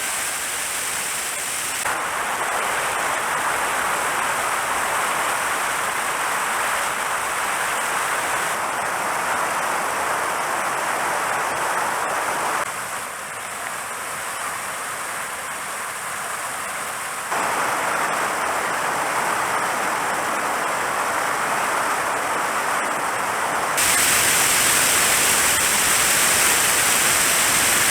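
Mountain stream rushing over rocks, a steady hiss of running water that jumps abruptly louder or softer several times.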